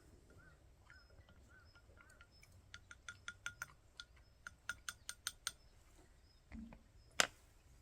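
Faint sharp clicks: two quick runs of about five clicks a second, each lasting about a second, then a single louder click near the end.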